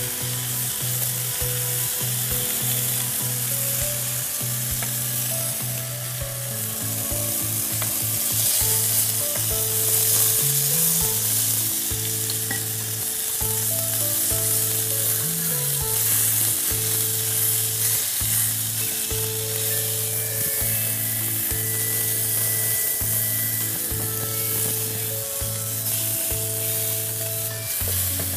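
Chicken sizzling as it fries in an uncovered pan on the stove while the last of its water cooks off, under background music with slow, stepping bass notes.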